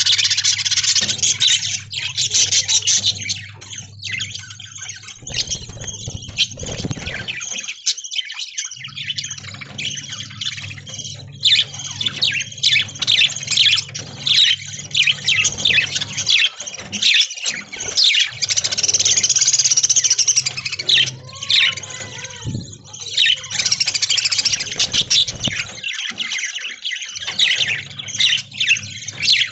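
A flock of budgerigars chattering: many short, overlapping chirps and squawks with no pause.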